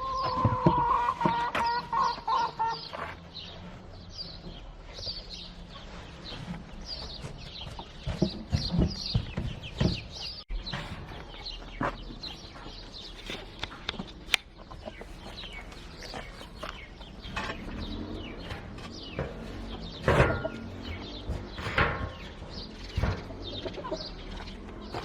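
Domestic chickens: a hen gives a long, held call for about the first three seconds, then there are many short, high peeps from chicks, mixed with scattered clucks and sharp taps.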